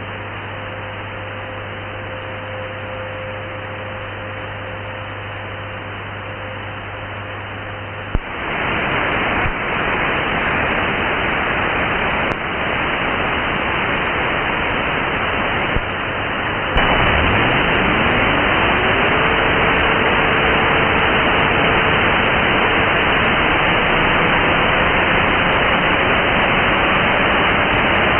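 Shortwave radio receiver audio on the 31-metre band: hiss with a faint steady tone, then about eight seconds in a loud, annoying noise comes on suddenly, stepping louder again after about seventeen seconds. With that second step a whistle slides up in pitch and then holds steady. The interference is of unknown origin.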